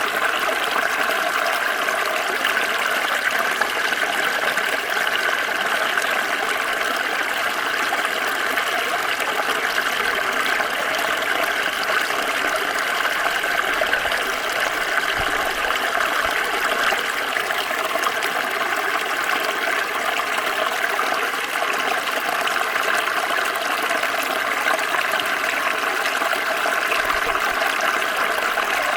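Small stream flowing over stones, a steady splashing and trickling rush.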